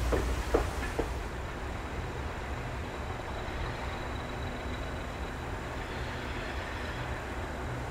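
A few sharp clacks of train wheels over rail joints in the first second. Then a steady low rumble of a distant diesel locomotive approaching.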